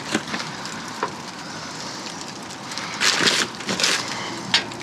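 Rummaging through trash: crinkling and rustling of packaging, loudest in a burst about three seconds in, with a few sharp knocks like cans being handled.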